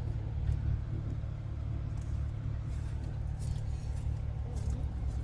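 Truck driving on the road, heard from inside the cab: a steady low rumble of engine and road noise. The truck is on a road test running on a newly replaced fuel pump.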